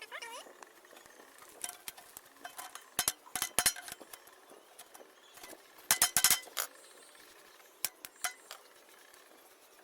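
Hammer striking a nail through a tin can into bamboo: sharp metallic clinks in quick runs of several strikes, about three seconds in and again around six seconds, with a couple of single knocks near eight seconds.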